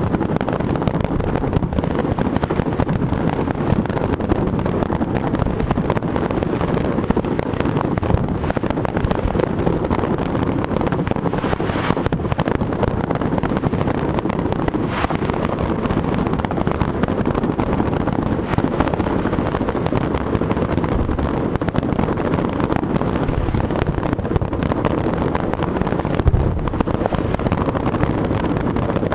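Fireworks display in a dense, continuous barrage: many bursts and crackles running together into a steady rumble.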